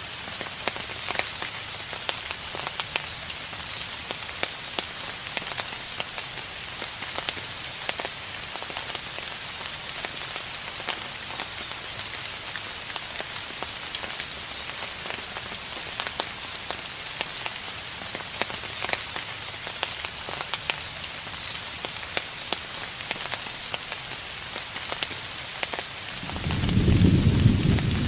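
Steady rain falling, with many small drop ticks. Near the end, distant thunder starts with a low rumble that grows louder.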